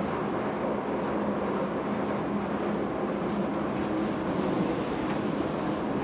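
Airport people-mover train running along its guideway, heard from inside the car: a steady rumble with a low hum.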